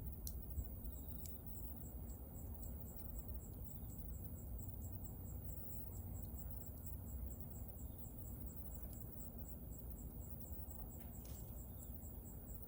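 Bonfire crackling with a few faint pops over a low steady rumble, while a cricket chirps steadily, about three high chirps a second.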